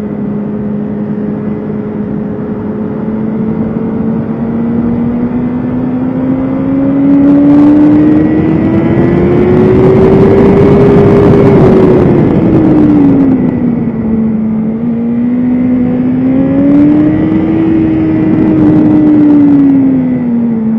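BMW S1000RR's inline-four engine running hard at speed on track. Its note climbs slowly to a loud peak about halfway through, drops back, rises again more briefly, then falls near the end, under a steady rushing noise.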